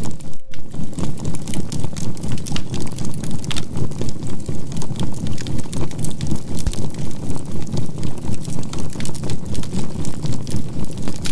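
Crackling of burning charcoal over a steady low drone whose loudness pulses evenly about three times a second, a binaural-beat healing tone with a faint 528 Hz note. The sound drops out briefly just after the start.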